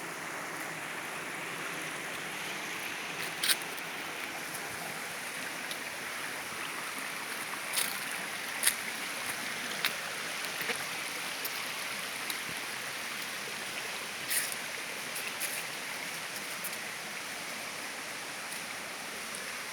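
Steady rush of flowing stream water, with a few short sharp clicks scattered through it.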